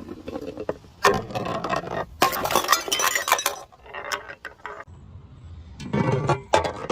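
Glass bottles breaking, with repeated sharp cracks and the clinking rattle of shards. The sound comes in clusters, with a quieter stretch a little past the middle.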